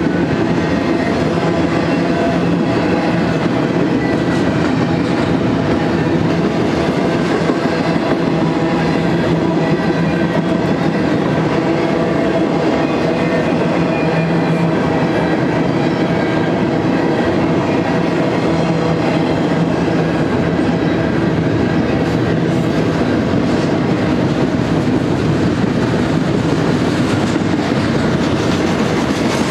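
Double-stack intermodal container train's well cars rolling past, steel wheels on the rails making a steady, even rumble with a few faint steady tones above it.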